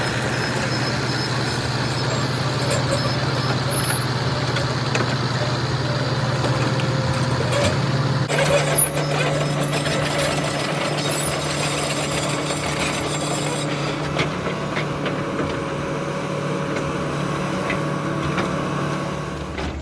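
Heavy diesel truck engine running steadily, its pitch stepping up about eight seconds in, with a hiss over the next few seconds.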